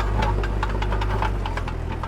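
Diesel engine of heavy earthmoving machinery running steadily, with a rapid clatter of small clicks and knocks over its low drone, the drone shifting in pitch near the end.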